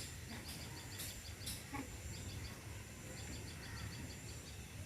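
A small bird chirping in quick runs of short, high notes, several a second, over a steady low outdoor rumble, with a few sharp clicks in the first second and a half.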